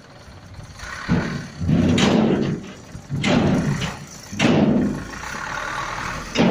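A series of heavy bangs and clattering thuds, about one a second, each dying away within a second.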